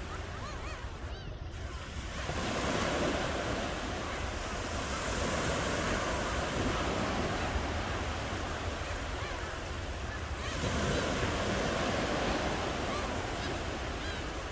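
Ocean surf: waves breaking and washing on the shore in a continuous rush that swells louder three times.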